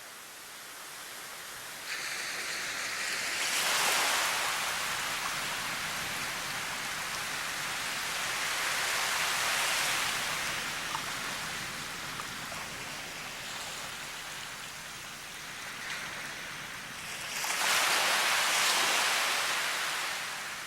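Rushing water noise, an even hiss that swells and eases: it rises about four seconds in, again around ten seconds, and is loudest near the end.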